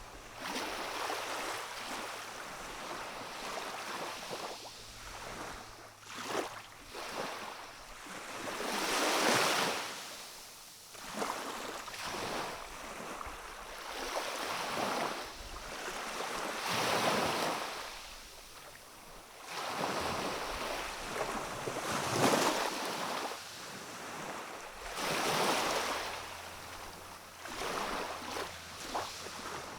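Calm sea: gentle waves wash in and draw back in slow surges every few seconds.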